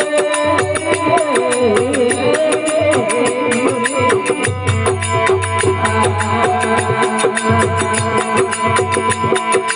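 Rajasthani desi bhajan music with no words sung: a wavering melody line for the first few seconds over steady held drone tones, with fast, regular clicking percussion and a repeating hand-drum beat.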